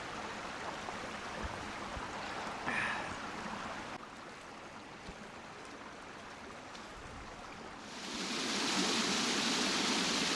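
Creek water flowing steadily over rocks. About eight seconds in, the rushing suddenly becomes louder and brighter.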